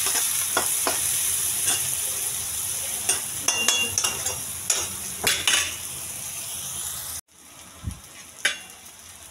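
Chopped onions and boiled egg halves sizzling in hot mustard oil in a kadai, with a metal spatula clicking and scraping against the pan as they are stirred. About seven seconds in the sound cuts off abruptly and the sizzle carries on much quieter.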